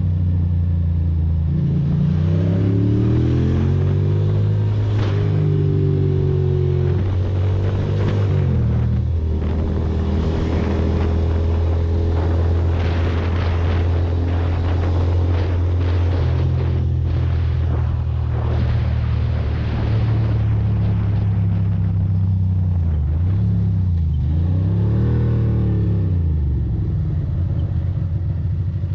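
Ducati Monster's V-twin engine running under way, its pitch stepping up and down as the rider changes gear and works the throttle, with a dip and quick rise near the end; wind noise sits over it through the middle.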